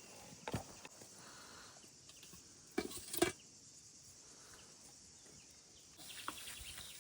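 Faint campsite sounds: a steady high hiss, broken by a few sharp clicks and knocks about half a second in and a louder cluster of knocks around three seconds in.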